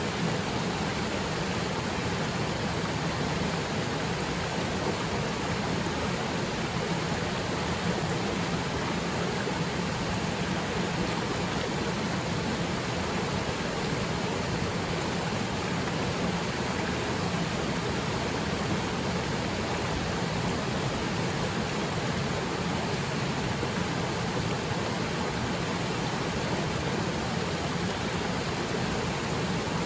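Haipua'ena Falls, a small waterfall, pouring steadily: an even, unbroken rush of falling water.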